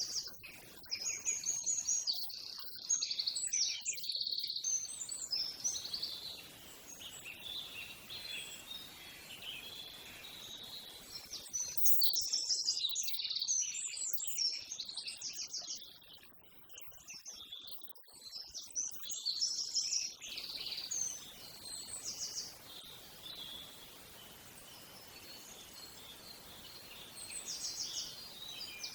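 Small birds singing and chirping in bursts of rapid, high trills. They are busiest in the first few seconds and again in the middle, with quieter stretches in between.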